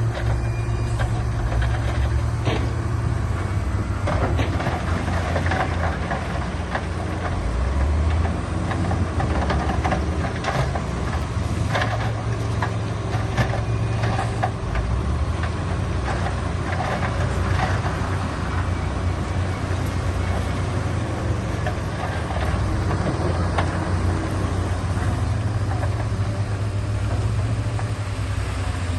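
Heavy diesel earthmoving machinery running steadily, with scattered knocks and clatter throughout as stone is moved.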